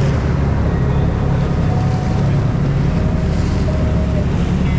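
Fishing boat's engine running steadily, with wind buffeting the microphone and the sea washing around the hull.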